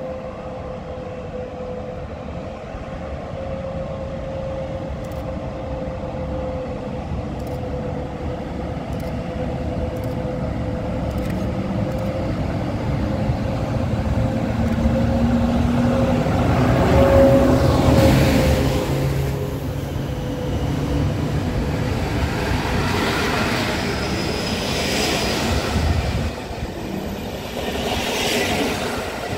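EP09 electric passenger locomotive hauling an Intercity express train: it approaches, growing louder to its closest point about two-thirds of the way through. Then the passing coaches' wheels make a rhythmic clatter, over a steady hum.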